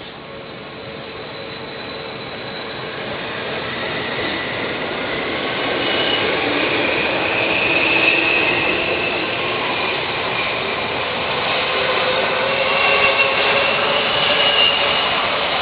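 An Odakyu line train approaching and running past on the track. Its rumble grows steadily over about eight seconds and then holds, with a high, thin squeal coming and going over it.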